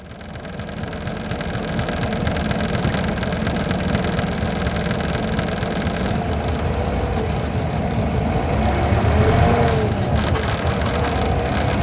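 Isuzu Gala coach's V engine and running noise heard from inside the bus, building up over the first couple of seconds and then running steadily, with the engine note wavering and rising slightly near the end.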